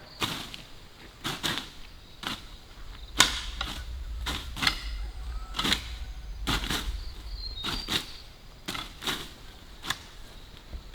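A series of irregular sharp knocks and clicks, about one a second, with a low rumble in the middle.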